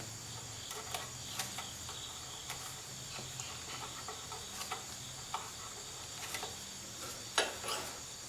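Irregular metallic clicks and taps of a wrench working on a brake-line fitting, two louder clacks near the end, over a steady low hum.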